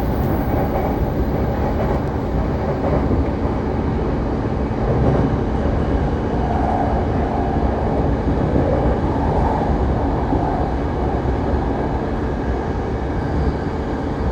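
Saikyo Line commuter electric train running at speed, a steady rumble of wheels on rails with a low hum.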